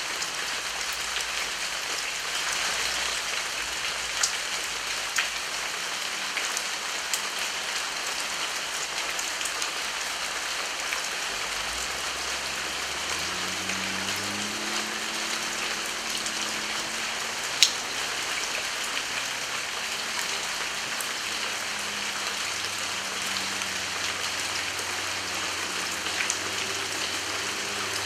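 Heavy rain falling steadily, with the sharp ticks of single drops striking close by; one drop lands loudly a little past the middle.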